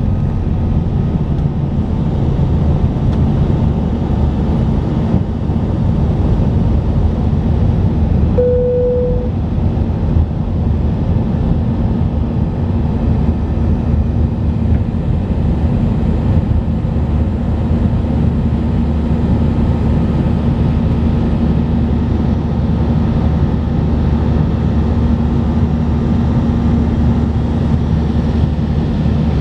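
Steady engine and airflow noise inside the cabin of an Airbus A319, heard from a window seat, with a low hum. A brief single tone sounds about eight seconds in.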